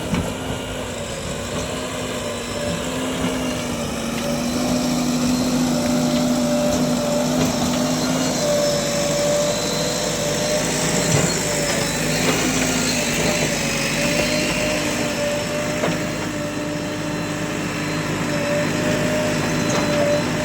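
Heavy diesel machinery engine running steadily under load, its note dipping slightly around the middle and then coming back up.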